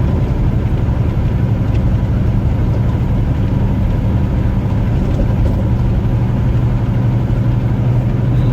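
Truck running at highway speed, heard from inside the cab: a steady engine drone with even road noise.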